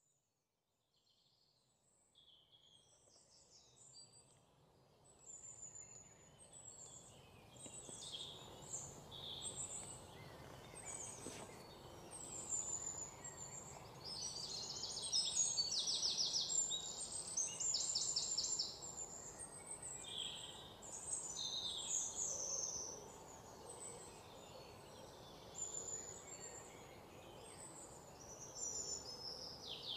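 Several birds chirping, whistling and trilling over a steady background hiss, fading in from silence over the first few seconds.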